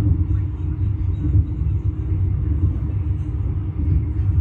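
Passenger coach of a special express train running on the rails, heard from inside the carriage: a steady low rumble with a constant hum above it.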